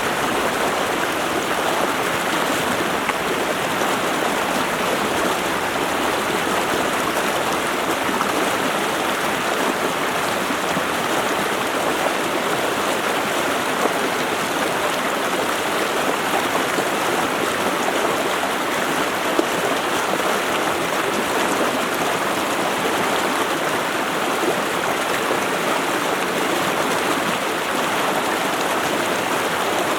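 Running water of a stream, rushing in a steady, even wash without pauses or changes.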